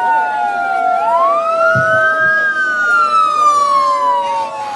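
Several emergency-vehicle sirens wailing at once, their pitches rising and falling out of step with one another.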